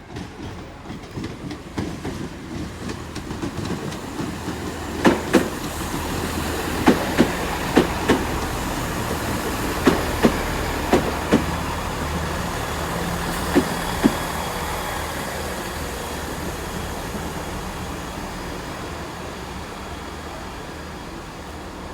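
Diesel multiple unit rolling slowly through the station, its engine humming low. From about five seconds in, its wheels click over rail joints, mostly in pairs of knocks a fraction of a second apart, about six pairs in all. The sound then slowly fades.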